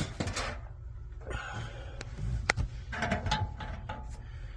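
Handling noise: rustling and scuffing in short spells, with one sharp click about two and a half seconds in, over a low hum.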